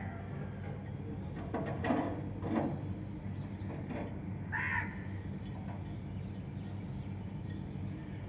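A cockatiel giving a few short, harsh calls: two close together about two seconds in and one more near the middle, over a steady low hum.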